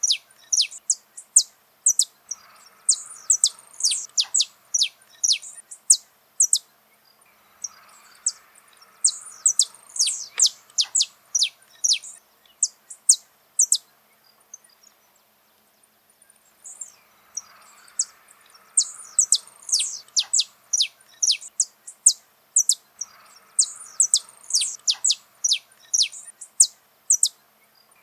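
Saffron finch singing: long runs of rapid, sharp, high notes that sweep downward, breaking off for about two seconds midway before starting again.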